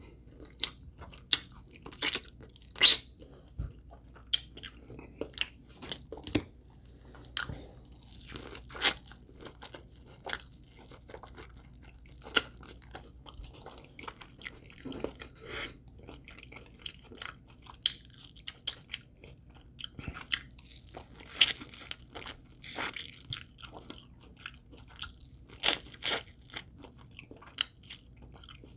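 A person chewing and biting into fried chicken wings close to the microphone: irregular sharp crunches and mouth clicks, several a second at times, with short pauses between.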